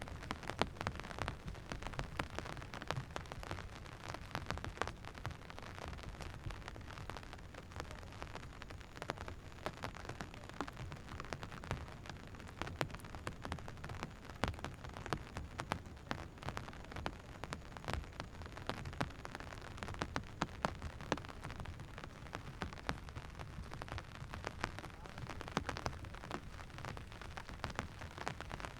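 Steady rain falling, with a dense patter of close raindrop ticks over a continuous hiss.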